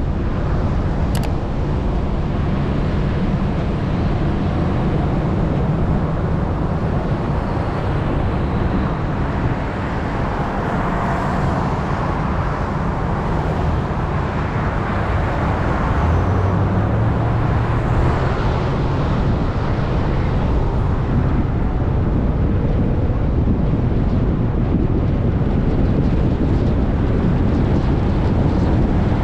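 Off-road vehicle engine running over sand dunes, with heavy wind rush and rumble on the microphone. The engine note climbs briefly a little past the middle.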